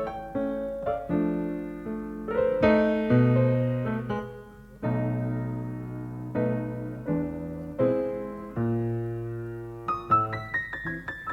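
Solo piano music, chords and a melody of struck notes that ring and fade.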